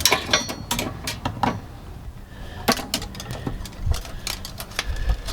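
Irregular small metallic clicks and taps of a hitch-install fish wire and carriage bolt being handled while the wire's puller is unthreaded from the bolt.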